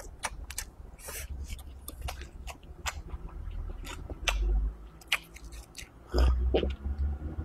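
Close-miked chewing of a mouthful of braised pork belly and rice, with many wet mouth clicks and smacks. Near the end, a couple of swallows of water from a glass.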